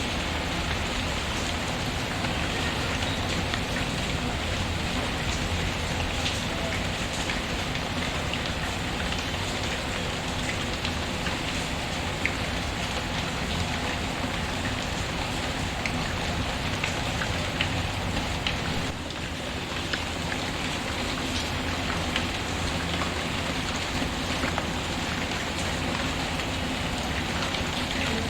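Steady rain falling, an even constant hiss with scattered small drop ticks, easing very briefly about two-thirds of the way through.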